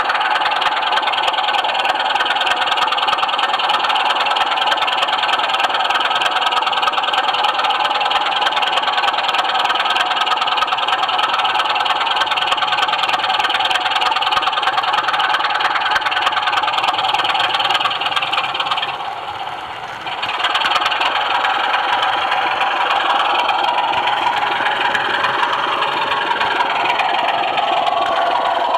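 Model railway train running along the track, heard close up from the camera wagon: a steady whirring rumble of wheels on rails and motor with a dense fast clicking. The sound drops briefly about two-thirds of the way through, then returns with a shifting pitch.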